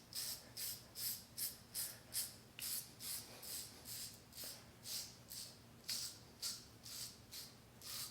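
Safety razor with a double-edge blade skimming stubble in quick, short strokes, about three a second, each a light scratchy rasp. It is a final against-the-grain pass with the adjustable razor set to its lowest setting, skimming rather than scraping.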